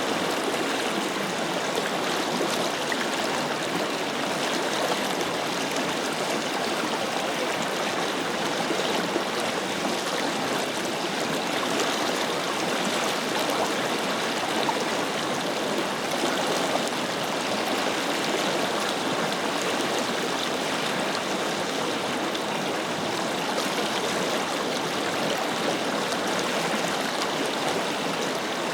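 Forest river flowing steadily over rocks: an even, unbroken rush of water.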